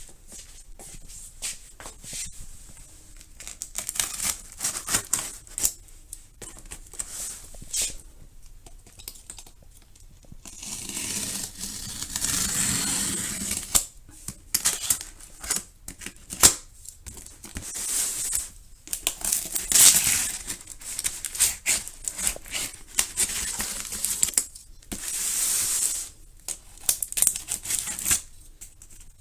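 Hands working on a rugged laptop-tablet on a workbench: irregular clicks and knocks, with a few longer stretches of rustling or scraping, one of them about 11 seconds in and another near the end.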